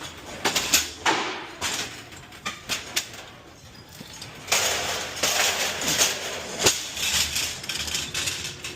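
Empty returnable delivery containers being handled and stacked in the cargo box of a box truck: a string of sharp knocks and clatter, then from about halfway a longer stretch of scraping and rattling as they are dragged and shoved into place.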